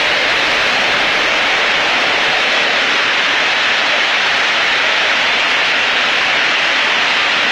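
Heavy rain from a storm pouring down, a loud, steady, even hiss.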